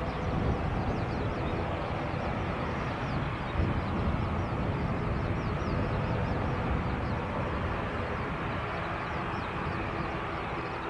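Pratt & Whitney PW127M turboprop engines of an ATR 42-600 running steadily while the aircraft taxis, with birds twittering faintly over it.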